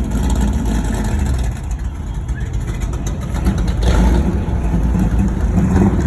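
Car engines running steadily as classic cars drive by, with one getting louder from about four seconds in as it passes.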